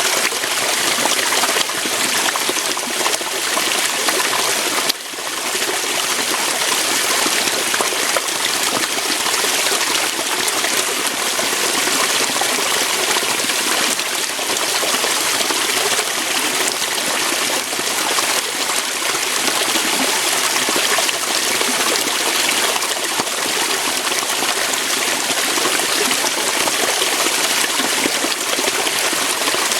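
Small waterfall, water rushing and splashing steadily over rocks, with a brief dip in level about five seconds in.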